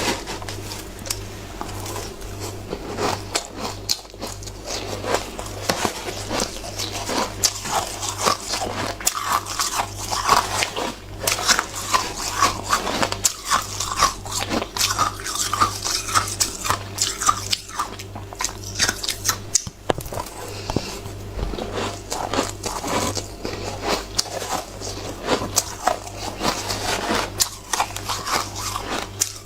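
Close-up bites and chewing of shaved snow ice, a dense run of irregular crunches and crackles. The ice is partly melted and, in the eater's words, no longer crisp.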